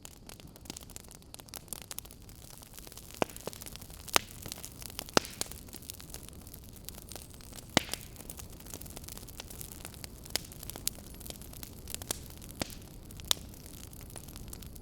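Wood fire burning in a fireplace: a steady low hiss with irregular sharp crackles and pops, a few louder snaps standing out.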